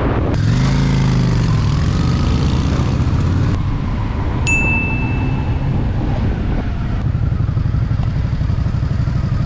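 Honda Shadow VT750's V-twin engine running under way, its pitch rising and falling in the first couple of seconds, over wind rumble on the microphone. About four and a half seconds in, a single sharp high ding rings for about a second.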